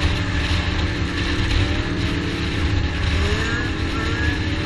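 Motor vehicle on the move: steady engine and road noise, with the engine's pitch rising several times in the second half as it accelerates.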